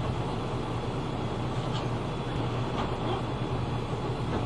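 Route bus engine running steadily, heard from inside the passenger cabin as an even low hum with cabin noise.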